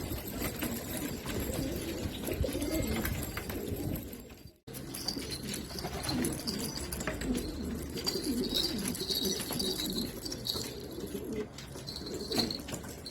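Several domestic pigeons cooing at once, overlapping low coos throughout, with some higher chirps in the second half. The sound cuts out completely for a moment about four and a half seconds in.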